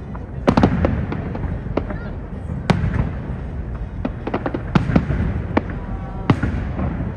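Fireworks display going off: a run of sharp bangs at irregular intervals over a steady low rumble, with the loudest reports about half a second in, near three seconds, near five seconds and just past six seconds.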